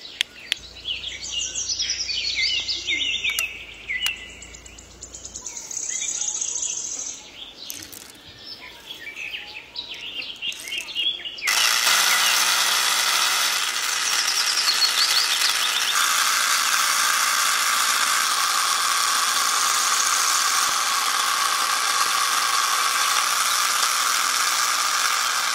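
Birds chirping for the first ten seconds or so, then a small electric motor starts running loudly and steadily: the motor driving a miniature tractor-drawn spreader. Its pitch steps up slightly a few seconds after it starts.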